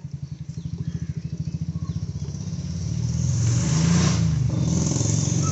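Maruti 800's small three-cylinder petrol engine running with a rapid, even low pulse after fresh oil has gone in, growing louder and fuller about three seconds in as it is revved.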